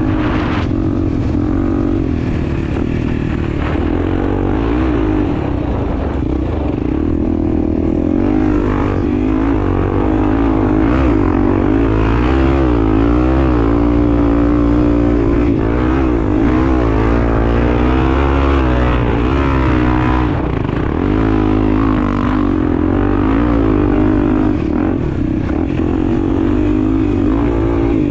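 Honda Tornado's single-cylinder 250 cc four-stroke engine running under way on an enduro ride, its revs rising and falling continuously as the throttle is worked.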